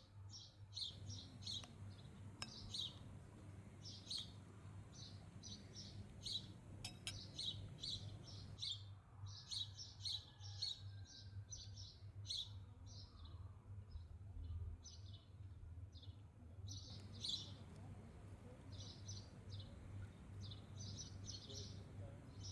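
Small birds chirping: many short, high chirps, several a second, over a steady low hum.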